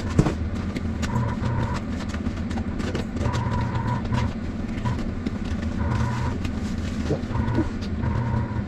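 A steady low mechanical hum, with a higher whine that swells in short stretches five or six times, over scattered clicks and knocks.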